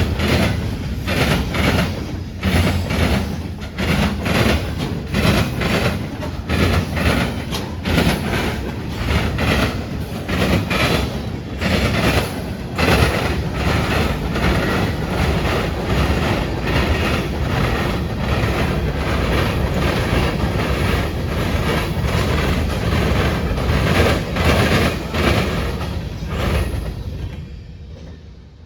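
A train's railcars rolling past close by, a steady rumble with the wheels clicking rhythmically over rail joints. The sound falls away near the end.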